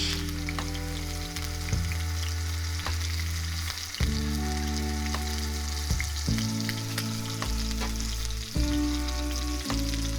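Beef steak frying in beef tallow in a skillet: a steady sizzle with scattered small pops. Background music with low chords that change every second or two plays over it.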